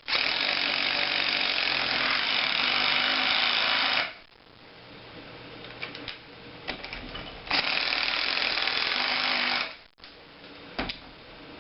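DeWalt DCF885 20V MAX 1/4-inch impact driver hammering hex head Tapcon concrete screws into a patio block, in two runs: one of about four seconds, then a shorter one of about two seconds about halfway through.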